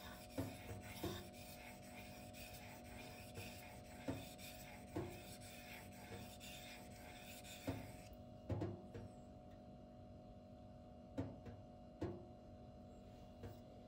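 M390 steel knife blade being stroked across a sharpening stone, scraping at the tip, with short knocks every second or few. The scraping stops about eight seconds in, leaving only the occasional knock.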